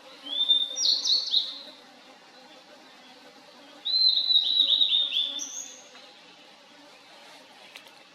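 Blue-and-white flycatcher singing: two short phrases of clear whistled notes, the second starting about four seconds in and running for about two seconds.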